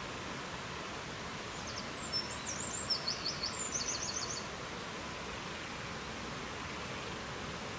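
A steady, even rushing hiss of nature ambience, over which a songbird sings one phrase of high chirps ending in quick trills, starting about one and a half seconds in and lasting about three seconds.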